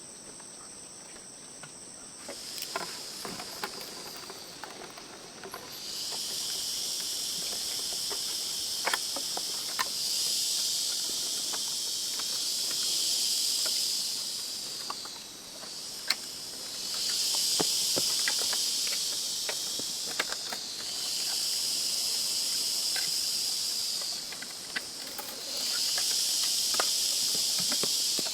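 Insects buzzing loudly in long bouts of several seconds with short breaks between them, over a steady high trilling at the start. Light clicks and knocks are scattered throughout.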